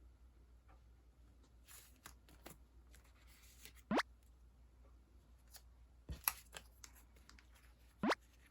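Sticker sheets and their plastic packaging being handled: light rustling and ticks, with two short rising swishes about four seconds apart and a few sharp clicks in between.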